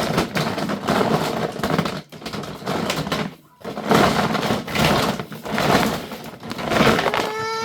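Plastic toy train-track pieces clattering and knocking together as someone rummages through them. Near the end a child starts crying with one long, steady wail.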